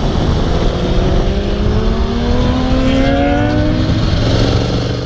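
Aprilia RSV4 sportbike's V4 engine accelerating hard, its pitch rising steadily for about three seconds, beneath a loud rush of wind noise.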